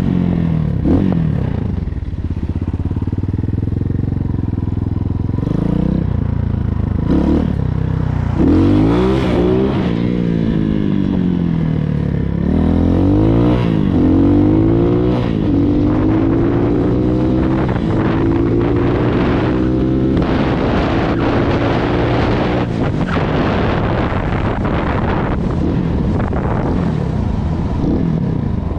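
250cc X Pro dirt bike engine revved hard again and again, its pitch climbing and then falling away every second or two, as the rider pulls wheelies.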